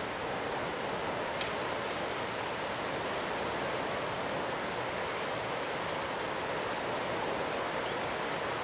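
Steady outdoor rushing noise with no break, like distant surf or wind, and a few faint ticks.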